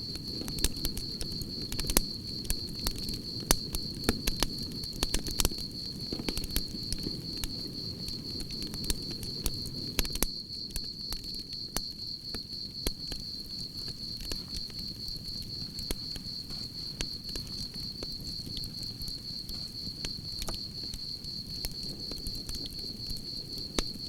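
Campfire crackling, with frequent sharp pops over a low steady rush of burning wood. Crickets chirp in a continuous high trill behind it.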